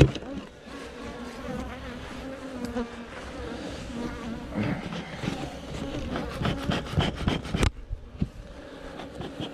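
Africanized honeybees buzzing, a wavering drone. A sharp knock right at the start, and a run of clicks and knocks in the middle that stops abruptly near the end.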